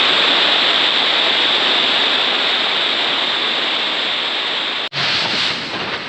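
Heavy storm rain falling hard on a tent, heard from inside: a dense, steady hiss. It cuts out abruptly about five seconds in and comes back slightly quieter.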